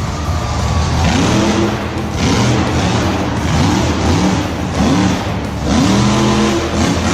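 Vehicle engine revving up and down over and over, each rev rising and falling in pitch, about twice a second, with background music.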